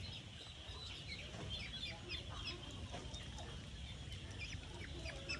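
Chickens clucking in the background, with many short, high, falling chirps scattered throughout and a faint low rumble underneath.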